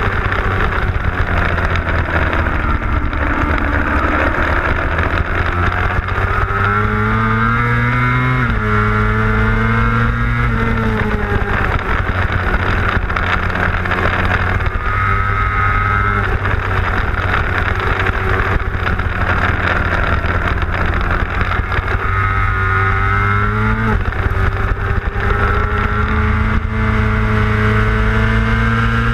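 600cc superbike engine under racing load, heard from onboard. Its pitch sinks as the bike slows, then climbs steadily and drops sharply at each upshift before climbing again, over a constant rush of wind noise.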